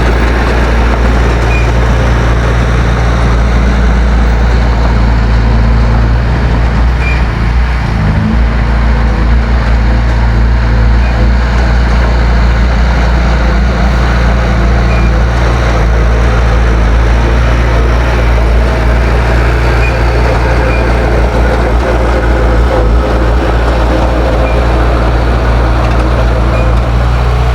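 Heavy diesel engine of earthmoving equipment running steadily under load, with a shift in engine speed about eight seconds in.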